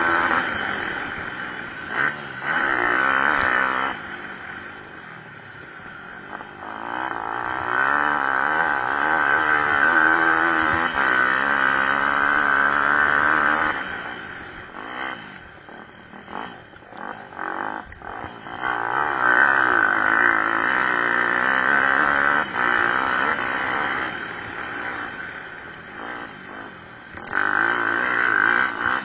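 Pit bike engines racing, revving up and down through the gears. The sound swells loud and fades several times as bikes pass.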